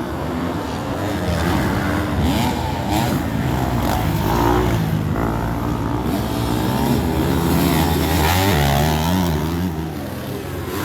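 Motocross bikes racing on the track, their engines revving up and down in pitch as they accelerate and shift.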